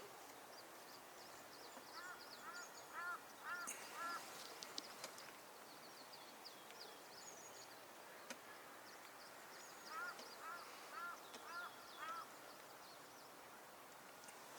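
Faint animal calls: two bouts of short, rising-then-falling notes repeated about twice a second, one about two seconds in and one near the end, over many fainter high chirps.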